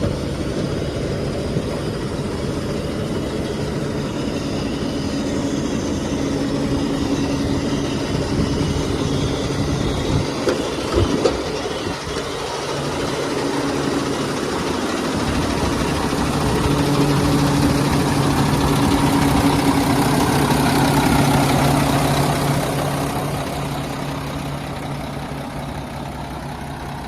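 Diesel engine of a 2004 Mack road tractor running with a steady hum, with a few sharp knocks about ten seconds in. The engine grows louder past the middle, then fades near the end.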